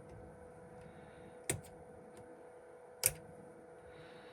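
Sharp taps on an iPhone XS's glass screen while testing a touchscreen that does not respond: two louder taps about a second and a half apart with fainter clicks between, over a faint steady hum.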